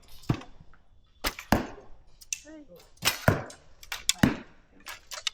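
Archers shooting bows: a string of sharp snaps and smacks of bowstrings and arrows striking, about ten in five seconds, some in quick pairs.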